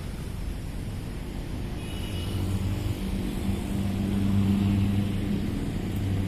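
Diesel locomotive engine running during shunting, a steady low hum that grows louder from about three seconds in.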